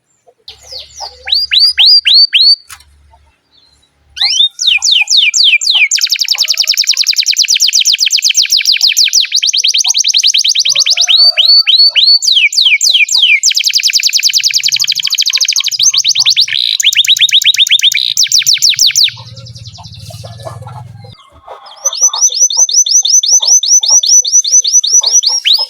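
Domestic canary singing a long song of fast rolling trills: rapid, evenly repeated high notes in runs of a few seconds each, switching speed and pitch from one run to the next. Short pauses about three seconds in and about three-quarters of the way through.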